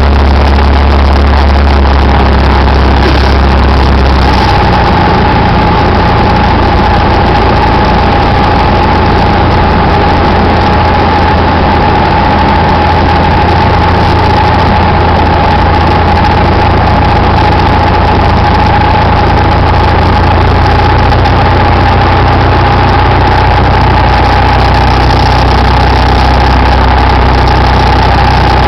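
Cessna 172's piston engine and propeller droning loudly inside the cabin, with a shift in the engine note about four seconds in. A steady high tone starts at the same moment and holds for the rest of the stretch.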